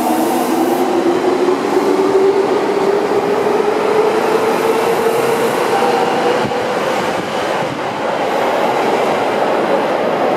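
Seibu 6000 series stainless-steel electric train passing through an underground station at speed without stopping. It makes a steady rush of wheels on rail, with a whine that rises in pitch over the first few seconds.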